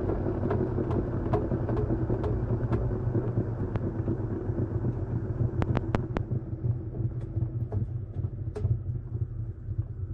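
Washing machine running a wash cycle: a steady low motor hum with regular sharp ticks early on that thin out, the whole sound easing off toward the end.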